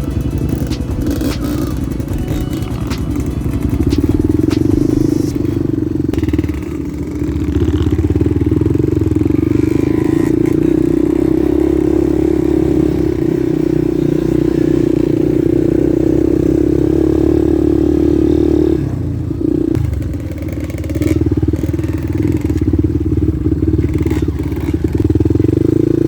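Small single-cylinder four-stroke trail motorcycle running at steady throttle, easing off briefly about three-quarters of the way through. Clicks and clatter from the bike over rough ground in the first seconds.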